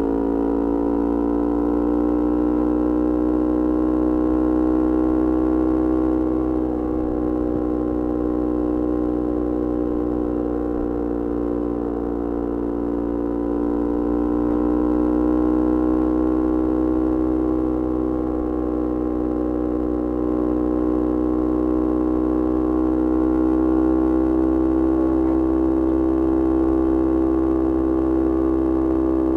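Yamaha R25's 250 cc parallel-twin engine through a Kea Speed aftermarket exhaust, running at a near-steady speed as the bike cruises, its note drifting only slightly up and down.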